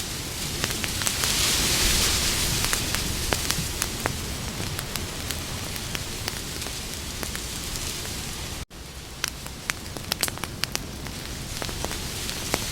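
Campfire crackling and popping over a steady hiss, the hiss swelling briefly in the first few seconds. The sound cuts out for a split second about nine seconds in.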